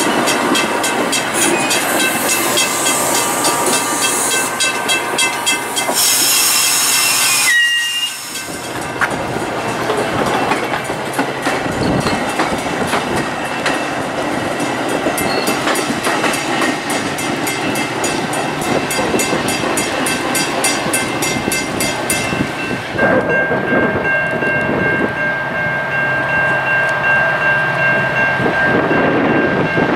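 Metra bilevel commuter coaches rolling past on the rails, wheels clicking rapidly over the joints, with a burst of air hiss about seven seconds in. After about 23 seconds the train noise drops away, leaving a steady high ringing tone and wind.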